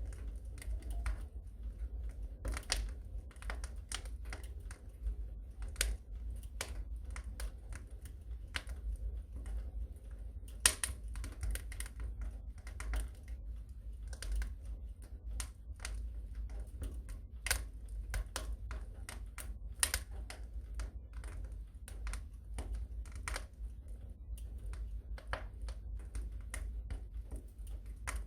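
Fire crackling in a fireplace: irregular sharp snaps and pops several times a second over a steady low rumble, with one louder pop about eleven seconds in.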